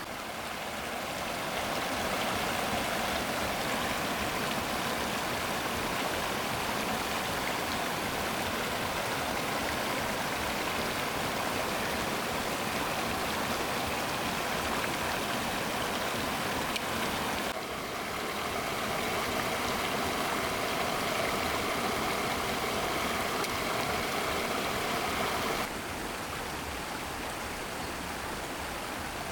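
Stream water flowing steadily, a continuous rush. Its sound changes abruptly twice, about two-thirds of the way in and again near the end.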